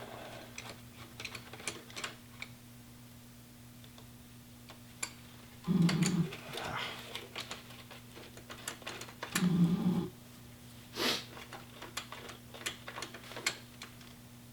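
Scattered clicks, taps and small clanks of a wrench and socket working the gearbox drain plug loose on a BMW R1100RT, over a steady low hum. Two short low vocal sounds come about 6 and 10 seconds in.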